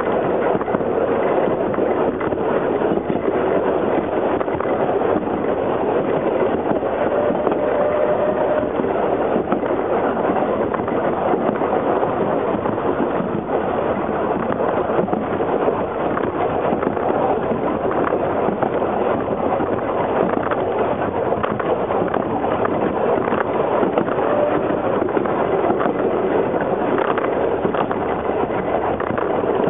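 Narrow-gauge railway carriage on the move, heard from the rear of the train: a steady rumble with continuous rattling and clatter of the wheels on the track.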